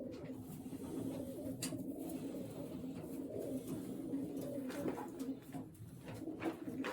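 Many racing pigeons cooing together in a steady low murmur, with a few brief sharp clicks.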